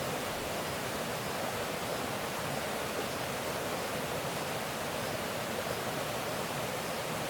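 Steady, unchanging rushing noise, with no distinct events.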